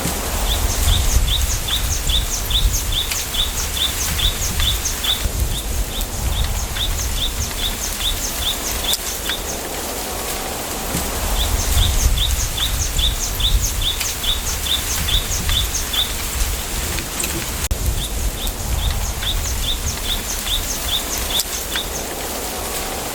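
A small bird repeating a short, high, down-slurred chirp about three times a second in runs of several seconds, over a steady hiss of wind through a bamboo grove with low wind rumble swelling and fading beneath it.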